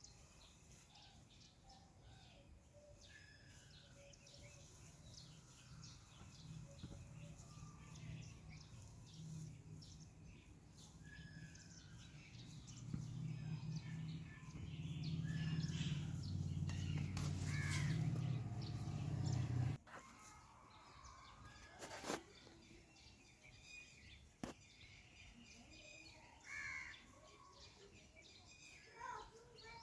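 Birds calling outdoors, with short scattered calls and a few crow-like caws. A low steady hum builds up underneath, grows louder, and cuts off suddenly about two-thirds of the way through.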